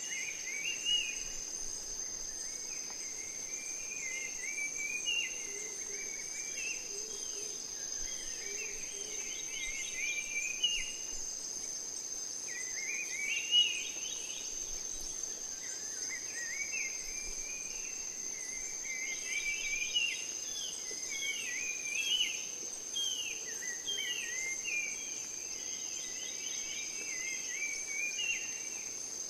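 Forest ambience: a steady, high-pitched insect trill runs throughout, with a bird singing short chirping phrases every few seconds over it.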